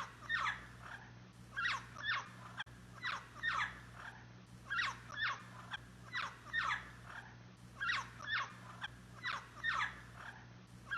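Yellow-naped Amazon parrot calling: a run of short calls, each sliding down in pitch, often in pairs, about two a second.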